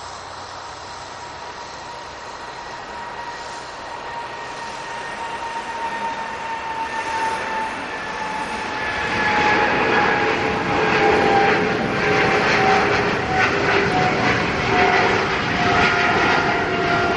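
Boeing 777's twin jet engines at takeoff power. The sound grows louder and rougher about halfway through, with whining tones that slowly fall in pitch as the aircraft passes.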